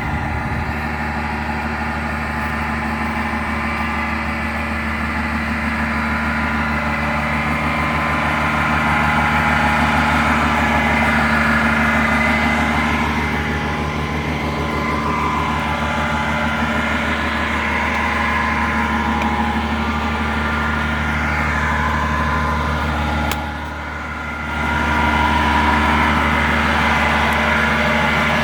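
PSI 11.1-litre six-cylinder natural gas irrigation engine running steadily at about 1500 rpm under load, driving a well pump. About 23 seconds in there is a click, and the sound drops briefly for about a second.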